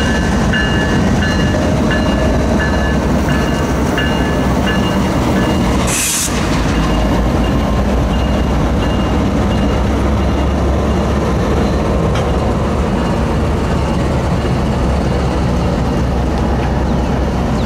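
CSX diesel freight locomotives rumbling past, with a crossing bell ringing about twice a second until it stops about five seconds in. A brief sharp hiss comes about six seconds in.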